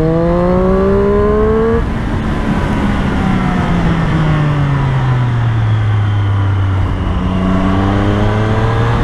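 Triumph Street Triple 765's three-cylinder engine under throttle, its pitch rising, then backing off about two seconds in and falling away slowly for several seconds before climbing again near the end, heard over steady road and wind noise.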